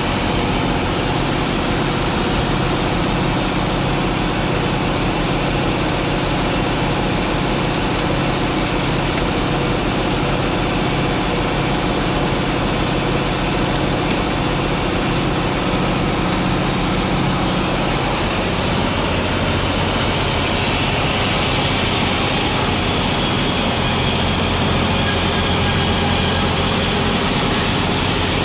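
Sawmill machinery running steadily, a loud continuous mechanical noise that shifts in tone about two-thirds of the way through.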